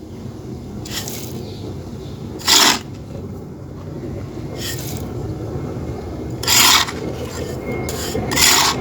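Short rasping scrapes of clay, one about every two seconds, over a steady low rumble.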